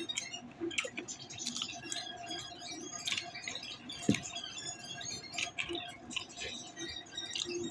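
Close-up chewing and wet mouth noises from someone eating chicken nuggets, a scatter of small clicks and smacks, with one soft knock about four seconds in.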